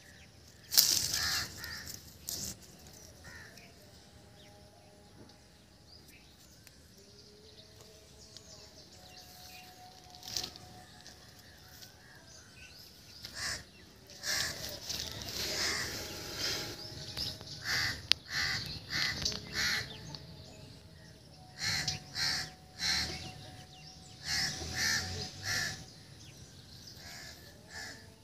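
Harsh, crow-like bird calls: one loud call about a second in, then a quieter stretch, then repeated short calls in clusters through the second half.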